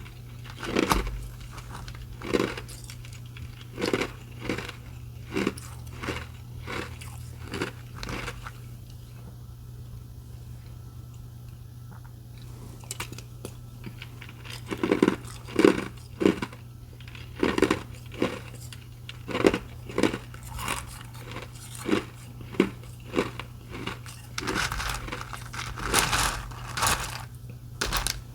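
Restaurant ice being bitten and chewed close to the microphone: separate sharp crunches about one or two a second, a pause of several seconds in the middle, and a denser run of crunching near the end. A steady low hum runs underneath.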